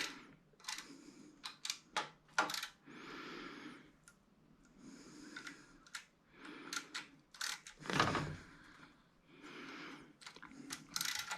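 Hand tools being handled while working on a small engine: scattered sharp metallic clicks mixed with short stretches of soft rustling and scraping.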